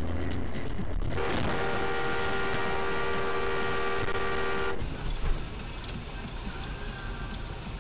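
Car horn held in one steady blast of about three and a half seconds, starting about a second in and cut off suddenly. Before it there is road and engine noise. After it comes traffic noise with a brief knock.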